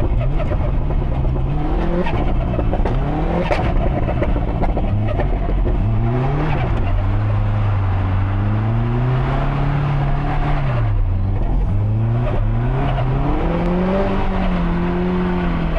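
Built Subaru Impreza STI's EJ257 turbocharged boxer four driven hard, its engine note climbing and dropping again and again as it revs up and shifts, with a couple of sharp cracks along the way.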